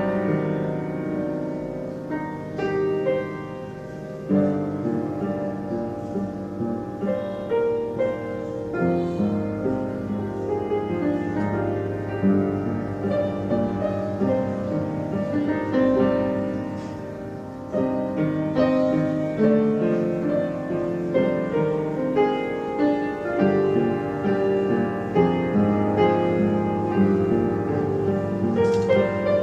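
Background piano music: a steady run of sustained, overlapping notes.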